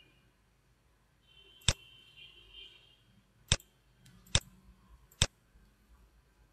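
Four sharp single clicks of a computer mouse button, the first on its own and the last three closer together, under a second apart.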